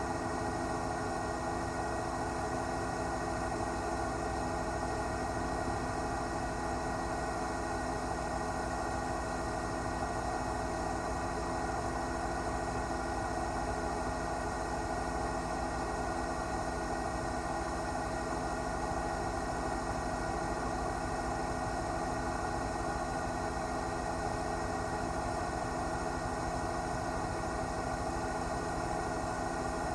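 News helicopter's engine and rotor noise picked up on board, a steady, even drone with no change in pitch or level.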